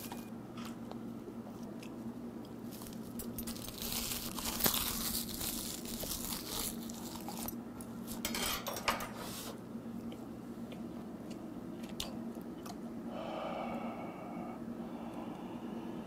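Close-miked chewing of a mouthful of rice wrapped in seasoned laver (gim), with louder bursts of biting and chewing about four seconds in and again about eight seconds in.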